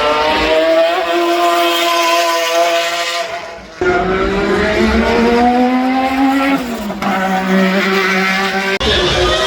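Racing car engines under hard acceleration, the engine note climbing steadily in pitch. About two-thirds of the way in it drops with an upshift. The sound breaks off and comes back abruptly twice, shortly before four seconds in and near the end.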